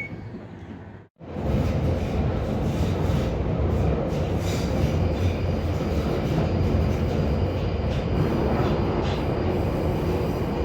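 London Underground Northern Line tube train (1995 Stock) running through a deep-level tunnel: a steady rumble of wheels on rail heard from inside the car. The sound cuts out briefly about a second in, then the running noise carries on unbroken.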